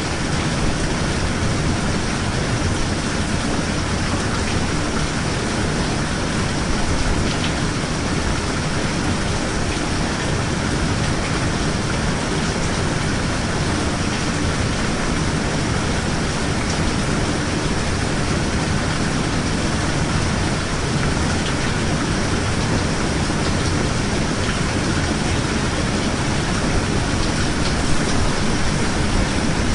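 Steady rainfall, an even hiss of rain falling on surfaces, unchanging throughout.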